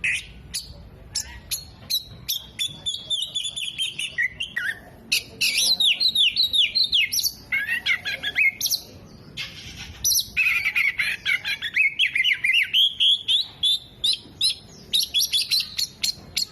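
Oriental magpie-robin singing energetically: a long, fast run of sharp chirps and sweeping whistles that mixes in mimicked calls of other birds, with a brief break about halfway through.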